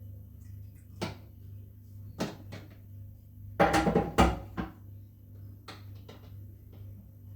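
Household objects being handled: a few separate knocks and clicks, with a louder burst of clattering about halfway through, over a steady low hum.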